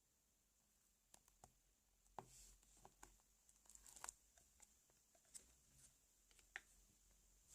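Slime being poked and squished by hand, giving faint, irregular sticky clicks and small crackles.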